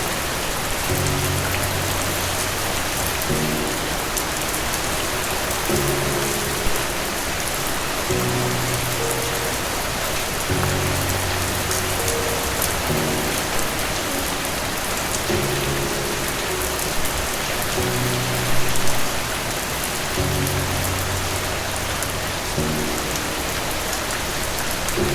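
Steady rain falling, an even dense hiss, over soft slow music of low held chords that change every couple of seconds.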